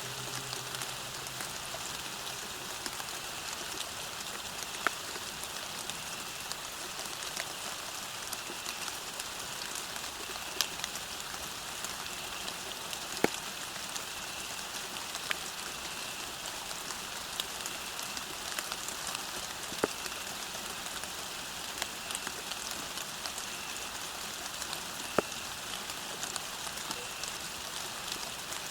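Steady rain falling on a path, with single louder drops striking sharply every few seconds.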